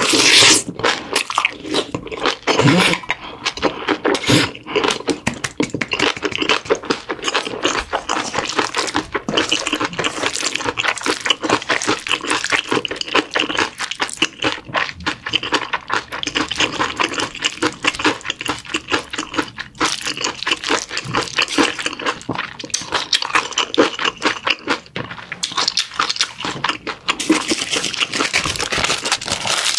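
Close-miked chewing of a mouthful of bibimbap with fresh radish salad and radish kimchi, a dense run of small wet clicks and crackles, along with a metal spoon scraping and stirring the rice around a stainless steel bowl.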